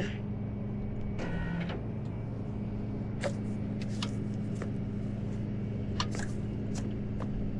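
Tow truck engine idling steadily, with a few sharp clicks and light knocks scattered over it.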